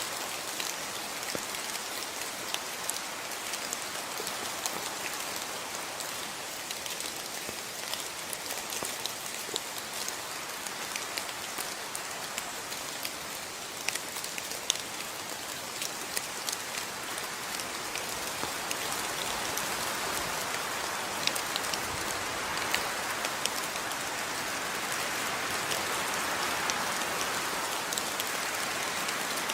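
Steady rain falling, a constant hiss with many individual drops ticking through it, growing somewhat louder in the second half.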